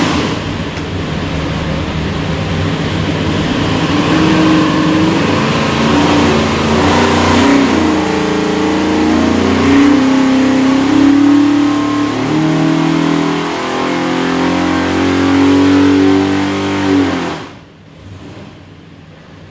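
632 cubic-inch big-block Chevrolet V8 running loud on an engine dyno through a power pull, its pitch stepping and climbing as the revs rise. The engine's sound falls away abruptly about seventeen seconds in as the pull ends.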